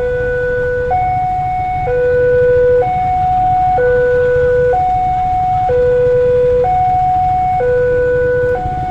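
Two-tone hi-lo siren sounding steadily, alternating between a lower and a higher pitch about once a second, over a steady low rumble.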